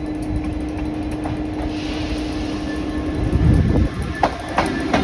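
Class 66 diesel-electric locomotive (two-stroke V12 engine) passing on the main line: a steady engine drone and rumble, with the drone dropping away about three and a half seconds in. A few sharp clicks follow near the end.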